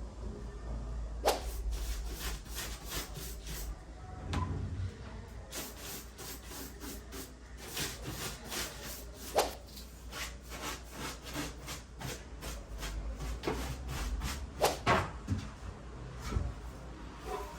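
A broom sweeping a floor: quick repeated bristle strokes scraping along, a few a second, with a few louder knocks.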